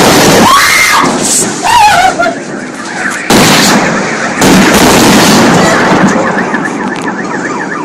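A sudden, very loud blast, followed by a long stretch of loud rumbling noise, with two more blasts about three and four and a half seconds in and a voice shouting near the start.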